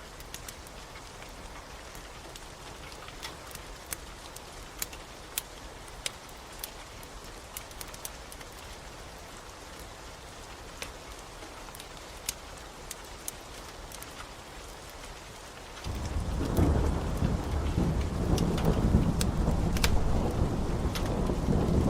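Steady rain with sharp, scattered crackles of a wood fire. About sixteen seconds in, a loud low rumble of thunder starts suddenly and keeps rolling.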